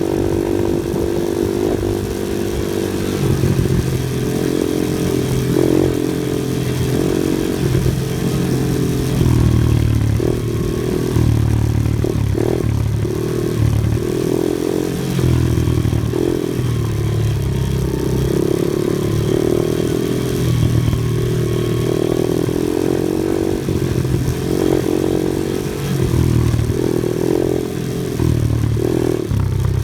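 Off-road vehicle engine running over a rough dirt trail, its pitch rising and falling as the throttle changes, with occasional knocks and rattles.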